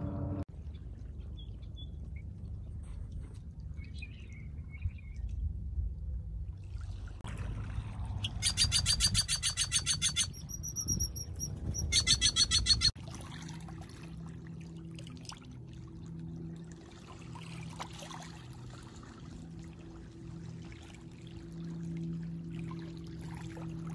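A bird calling overhead: a loud, fast rattling series of sharp notes, thin high whistles, then a second rattling series. Under and after it, a low rumble of water and wind, and from about halfway a faint steady low hum.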